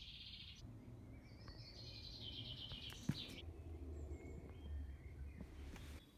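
A songbird singing two short, rapid trilled phrases, one at the start and one about two seconds in, over faint woodland background noise. A single sharp click comes about three seconds in.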